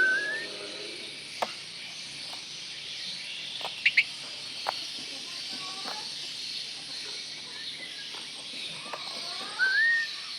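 Oriental magpie-robin (kacer) calling: a loud rising whistled note at the start and another near the end, with a few sharp clicks between them. A steady high insect-like buzz runs underneath.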